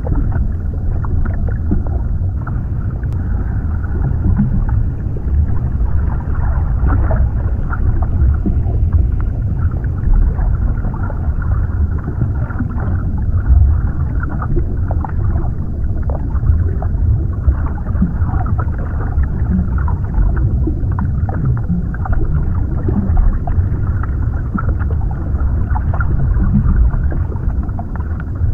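Underwater ambience: a steady, deep rumble of water with faint crackles and ticks scattered through it.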